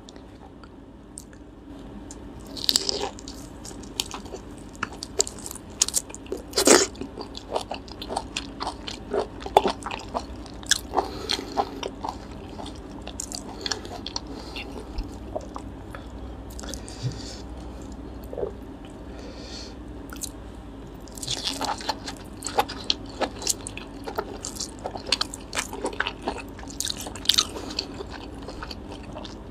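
Close-miked chewing and biting of grilled lobster tail meat: wet, smacking mouth sounds with sharp clicks, in clusters, with quieter stretches between them.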